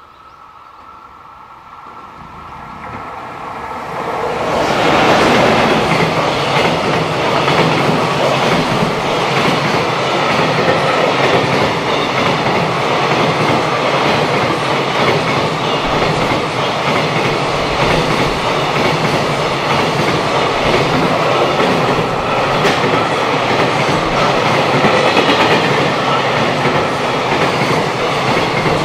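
JR Freight EF210 electric locomotive approaching and passing close by with a container freight train, growing louder over the first five seconds. After that comes the steady, loud run of the container flatcars' wheels going past on the rails.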